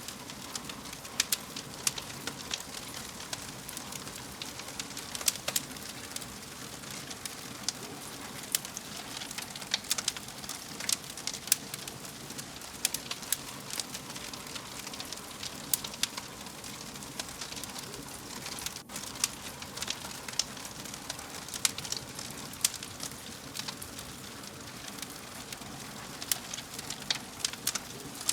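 Wood fire in a fireplace crackling: a steady hiss with frequent sharp, irregular pops and snaps.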